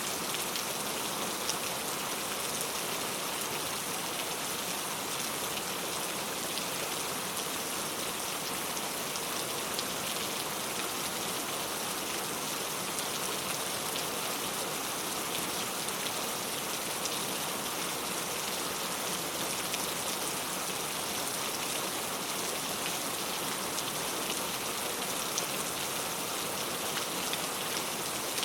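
Heavy rain falling steadily, an even hiss with many fine drop impacts and no thunder.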